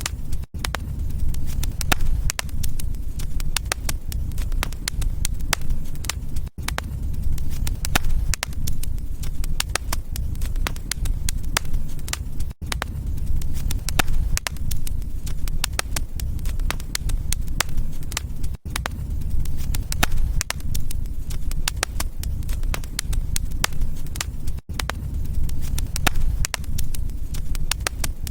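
Wood fire crackling steadily, dense sharp pops and snaps over a low rumble, with a brief dropout about every six seconds where the recording loops.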